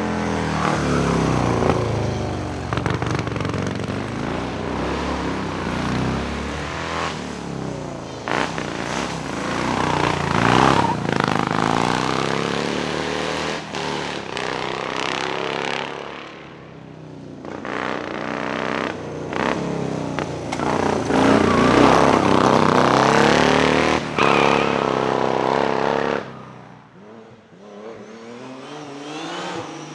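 Vintage racing car engines driven hard up a hillclimb, revs rising and dropping again and again through gear changes. The sound dips about halfway through before another hard-revving run, then falls quieter near the end.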